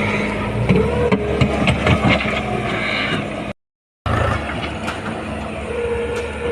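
Construction machine's engine running steadily, with several sharp knocks and clanks in the first half. The sound drops out completely for about half a second a little past the middle, then the engine carries on.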